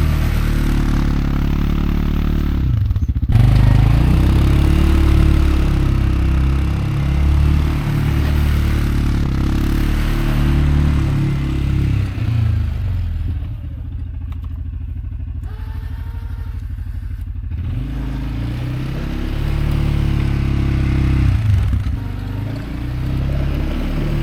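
CFMoto CForce 520L ATV's single-cylinder engine working under load as it pushes a snow plow, engine speed rising and falling, with the scrape and rush of the plow through snow. About midway it drops to an even idle for a few seconds, then picks up again.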